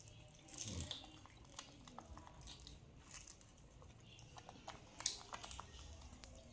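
Faint crunching and chewing as a baby monkey and a toddler eat crispy fried corn rolls, with scattered small crackles and clicks and a sharper click about five seconds in.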